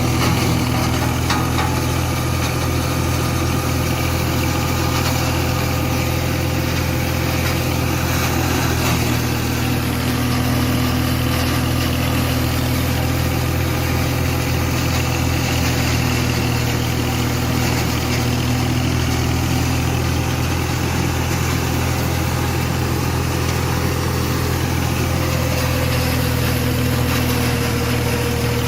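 Tractor engine running steadily at constant speed with a wood chipper attached, giving an even drone and a steady hum that does not change.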